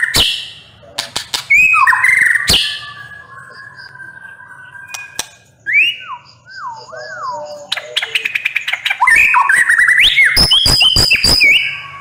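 White-rumped shama singing: loud whistled phrases with sliding notes, then, from about eight seconds in, a rapid burst of sharp clicks and chattering notes.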